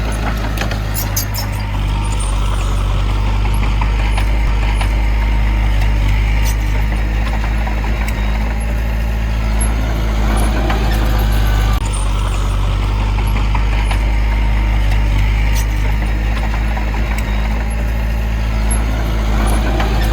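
A heavy construction machine's diesel engine running steadily with a deep, even hum, with faint clicks and rattles over it.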